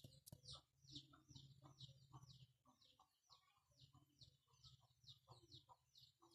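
Near silence with faint bird chirps repeating rapidly, about two to three a second, each a short falling note, over a faint low hum.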